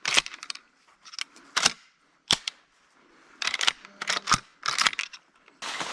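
Scattered sharp clicks and knocks, about a dozen, with near quiet between them. Near the end, steady outdoor background noise cuts in suddenly.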